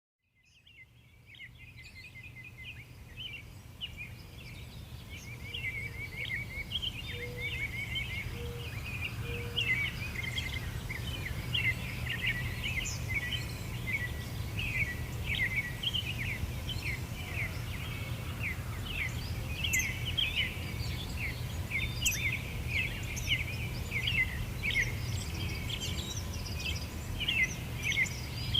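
Many small birds chirping and singing at once, with a steady low rumble underneath; the sound fades in over the first few seconds.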